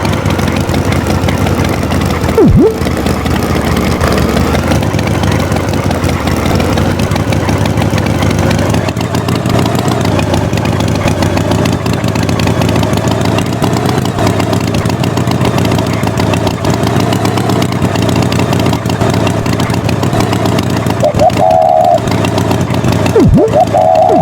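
Tractor engine running steadily, with a quick swooping sound effect that dives down and back up about two and a half seconds in and again near the end, and a short wavering higher tone just before the end.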